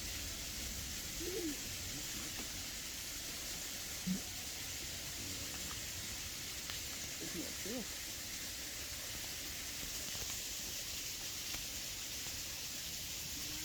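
Steady outdoor background hiss with a few brief, faint distant voices of other visitors.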